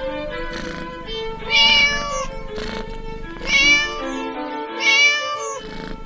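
A cat meowing three times, loud, bending calls about two seconds apart, over steady instrumental background music.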